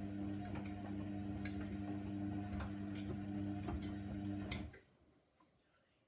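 Hoover washing machine's drum motor running with a steady hum and scattered clicks and knocks from the tumbling drum, then cutting off suddenly about three quarters of the way through, leaving near silence: the pause between tumbles in the wash cycle.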